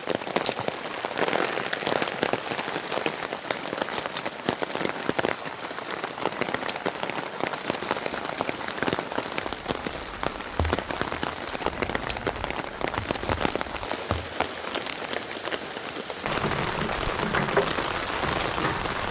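Heavy rain falling, with many separate drops ticking sharply close by. The sound changes abruptly near the end to a fuller, deeper rain noise.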